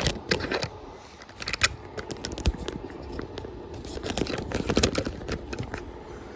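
Hands working at a car's engine-control-unit wiring and connector: irregular sharp clicks and scrapes of plastic and metal handling, busiest about four to five seconds in.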